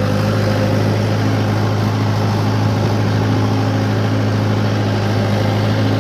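Mahindra 575 DI tractor's four-cylinder diesel engine running steadily at an even speed.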